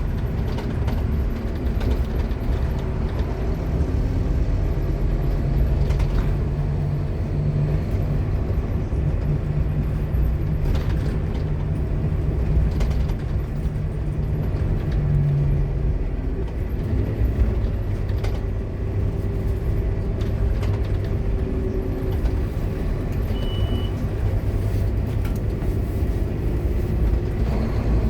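Scania K230UB single-decker bus driving, its engine and ZF Ecomat automatic gearbox running loudly, the pitch going up and then dropping about halfway through as it changes gear.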